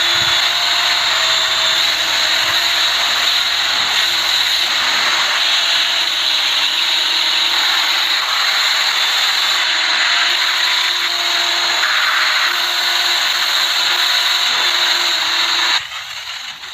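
High-pressure washer spraying water onto a car, a loud steady hissing spray with a faint pump hum beneath. It breaks off briefly just before the end.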